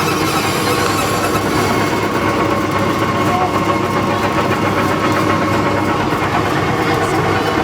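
Steady running of a ride tractor's motor, holding an even pitch and level throughout, with voices in the background.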